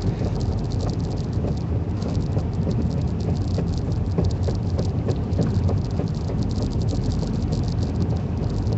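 Tire chains on a slowly driven vehicle clattering and tapping against the wheel wells in quick, irregular clicks over a steady low road rumble. The chains are hitting the body, which the driver wants to stop.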